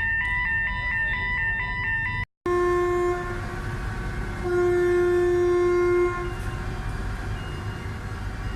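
A rapid electronic warning beeper pulsing about four times a second, cut off after about two seconds. Then MV Clansman's ship's horn sounds: a short blast, then a longer blast of about a second and a half on one steady note.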